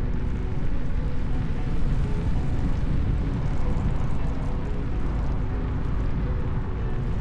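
Steady wind rumble buffeting the action camera's microphone while riding an electric unicycle, mixed with rolling noise; a few faint steady tones sit above it.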